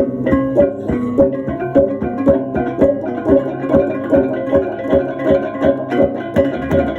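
Balinese baleganjur gamelan playing, its bronze gong-chimes ringing in a steady pulse of about three strokes a second.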